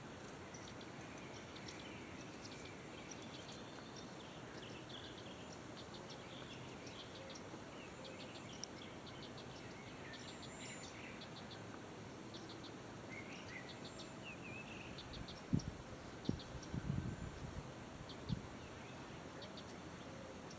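Outdoor bird-and-insect ambience: many small birds chirping, over a steady high-pitched insect drone. Near the end, a short cluster of low thumps stands out as the loudest sound.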